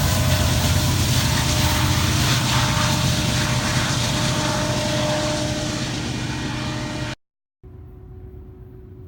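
Freight train rumbling past: a loud, steady mix of rail noise and engine drone with a few steady tones, slowly fading. It cuts off abruptly about seven seconds in, and a much quieter low hum follows.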